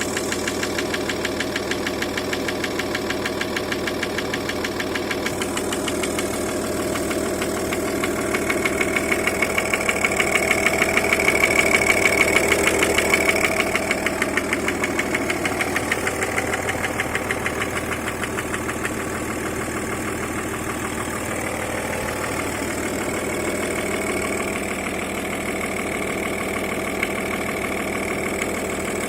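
Audi A6 C5 2.5 TDI (AFB) V6 diesel engine running at idle with a regular knock, louder for a few seconds around the middle. The owner cannot identify the knock, which comes and goes at idle and is always there at higher revs.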